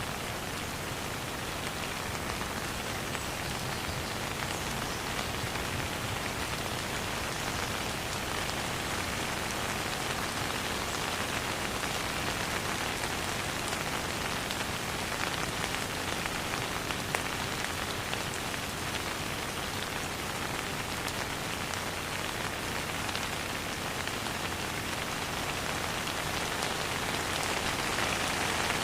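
Steady, even rain falling and pattering on surfaces, with no thunder.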